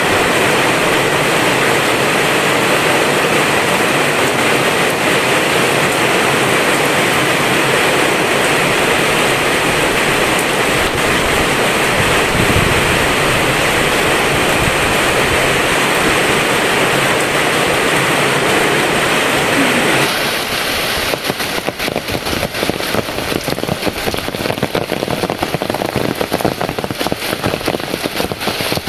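Heavy rain pouring steadily. About two-thirds of the way through it changes abruptly to a closer, crackling patter of many separate drops.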